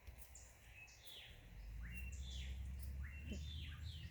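Birds calling in a quick, regular series of short descending chirps, about two a second. A low rumble joins about a second and a half in.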